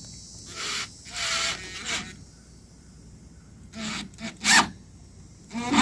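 A series of short rasping, rubbing scrapes, three close together and then three more about two seconds later, from hands working the Starlink cable into place during the install.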